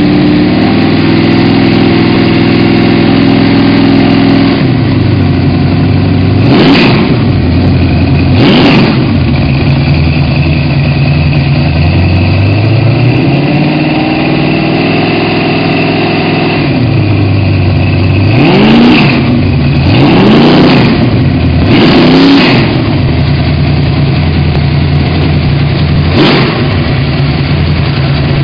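Ford 351 Windsor V8 crate engine running on an engine run stand through short headers and small mufflers. It idles steadily and is blipped six times, each a quick rise and fall in revs: two about a third of the way in, then four in the second half.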